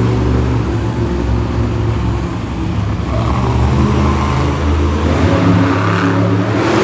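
Monster truck engine running hard and revving while the truck spins donuts, its pitch wavering up and down without a break.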